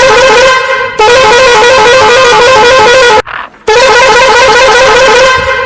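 Battery-operated toy's electronic horn-like tone, loud and warbling quickly in pitch, sounding in long stretches that break off briefly twice.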